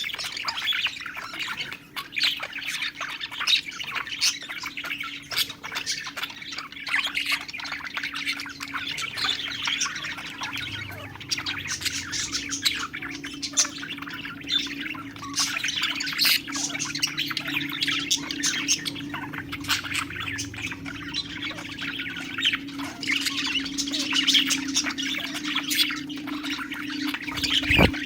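A group of budgerigars chattering, with dense, rapid chirps, warbles and squawks that never pause. A steady low hum runs underneath.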